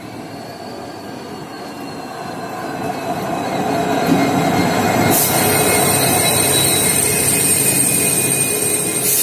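A train running on the rails, its rumble growing louder over the first few seconds. About five seconds in, a steady high-pitched wheel squeal sets in and holds until it cuts off near the end.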